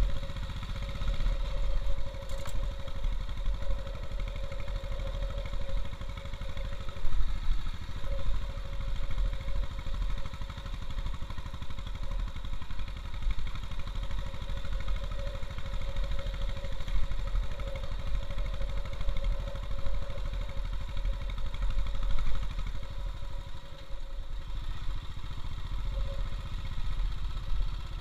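Royal Enfield Bullet's single-cylinder four-stroke engine running steadily as the motorcycle is ridden along a rough gravel road. Near the end the engine dips briefly, then picks up again.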